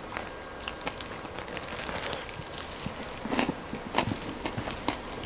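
Chewing and crunching of crispy fried chicken, with small crackles scattered throughout and a few louder crunches about three to four seconds in.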